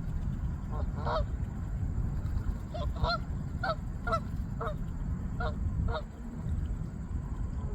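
Canada geese honking: about nine short, separate honks scattered irregularly, over a steady low rumble.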